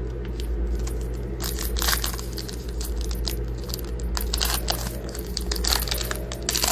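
Foil trading-card pack wrapper being torn open and crinkled, an irregular crackling and tearing that comes in two spells, the second one near the end, over a steady low hum.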